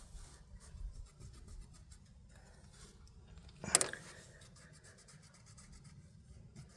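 Faint scraping and rubbing of hand tools on a valve rocker of an inline-six tractor engine while the valve lash is adjusted, with one sharp click a little past the middle.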